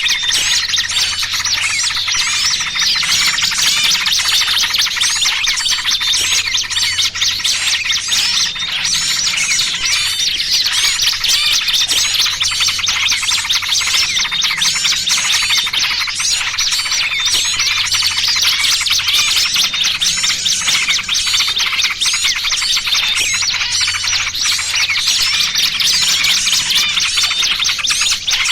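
A dense, unbroken chorus of small birds chirping and twittering, many calls overlapping: a bird-trapping lure mix of excited yellow-vented bulbul chatter with the alarm calls of a small bird caught in a trap, played to draw wild small birds in.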